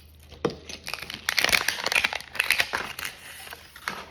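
Food packaging crinkling and rustling as it is handled, with irregular sharp crackles and a few single clicks, busiest in the middle.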